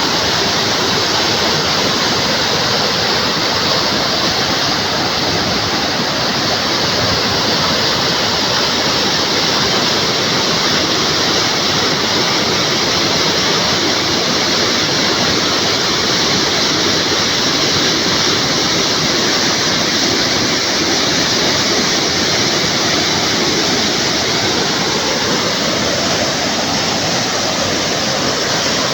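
Steady, loud rushing noise with no breaks.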